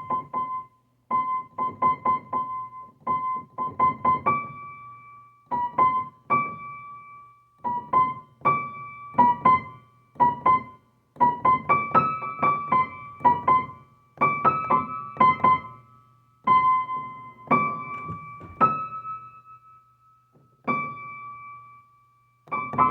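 Instrumental keyboard music with no singing: quick clusters of short, bright repeated notes, broken by brief pauses between phrases.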